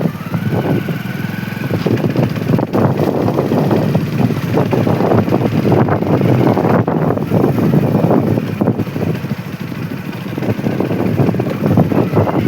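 Motorcycle riding along: engine and road noise, loud and continuous with an uneven flutter, and a thin steady whine for the first two seconds or so.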